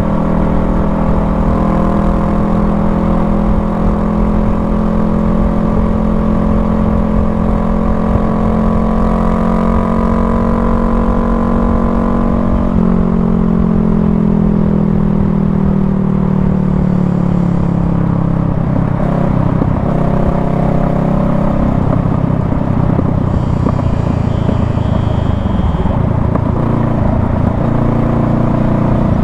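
Honda Rebel 500's parallel-twin engine heard from the rider's seat, its pitch climbing slowly at first. About 13 seconds in the pitch drops suddenly and keeps falling, and in the later part the engine note runs low and uneven over a steady rush of noise.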